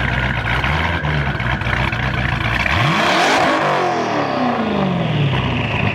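Car engine over a steady idle rumble, revved hard about three seconds in: a steep rise in pitch to a loud peak, then the pitch falls away over about two seconds.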